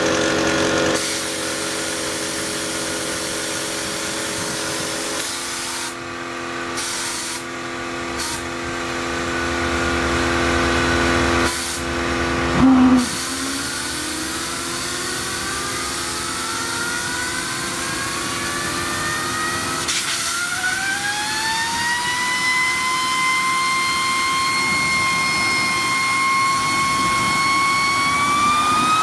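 Model jet turbine whining, its pitch steady at first; after a brief loud burst the whine climbs as the turbine spools up, holds level for a few seconds, then rises again near the end.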